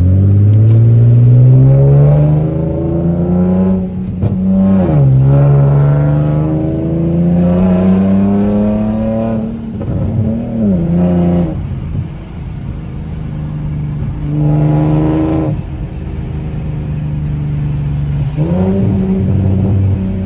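Tuned Infiniti G37's 3.7-litre V6 under hard acceleration, heard from inside the cabin. The revs climb and drop sharply at an upshift about four seconds in, then climb again to a second upshift near ten seconds. After easing off, there is a short burst of throttle around fifteen seconds, and the revs rise again near the end.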